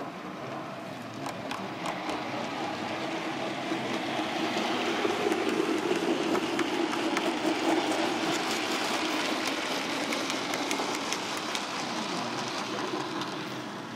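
00-scale model goods train running on the track: a steady rumbling hum that swells in the middle and eases off again, with scattered clicks from the wheels over the rail joints.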